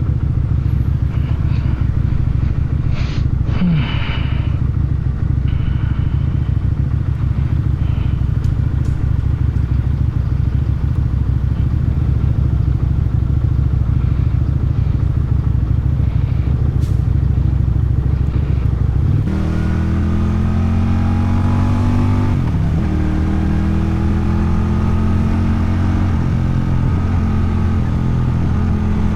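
Motorcycle engine and exhaust running at road speed, recorded from the rider's seat: a steady low rumble at first, then about two-thirds of the way through a clearer exhaust note that rises and falls in pitch as the throttle changes.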